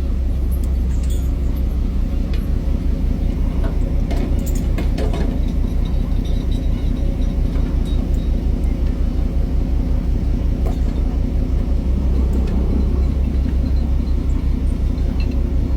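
Boat engine running steadily: a loud low rumble with a fast, even pulse, with a few faint knocks over it.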